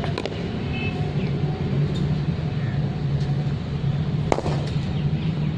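Steady low engine drone, with a few sharp clicks near the start and a louder crack about four seconds in.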